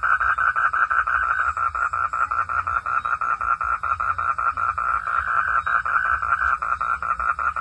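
Frogs calling at night in a steady chorus of rapid, evenly spaced pulses.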